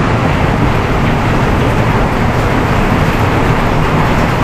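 Intense rainfall pouring down: a loud, steady, unbroken rush of rain.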